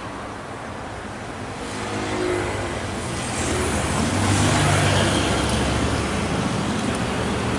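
A bus's diesel engine running close by with a low hum under broad road noise. It grows louder about two seconds in and is loudest around the middle.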